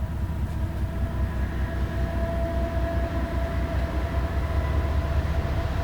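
Diesel-electric freight locomotives (a CN ES44AC leading two NS C40-9Ws) approaching: a steady low engine rumble with a few high, steady whining tones, growing slowly louder.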